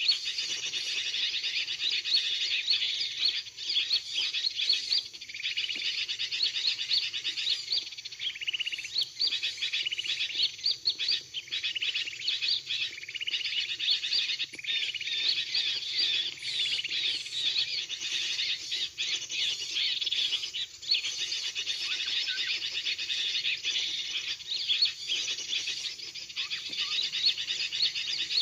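Dense, unbroken chatter of rapid small-bird chirps and trills: the bird-trapping lure call of a sooty-headed bulbul mixed with small-bird calls.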